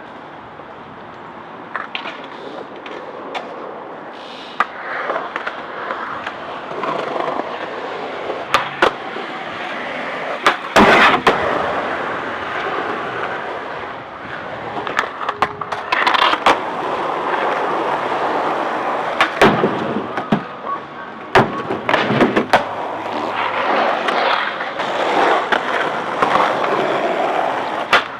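Skateboards rolling with continuous wheel noise, broken by repeated sharp clacks and cracks of boards and trucks striking the ground or an obstacle. The loudest crack comes about eleven seconds in.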